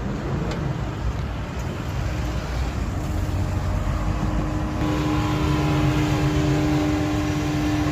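Car engine running steadily over outdoor rumble, its even engine note coming up clearly about five seconds in.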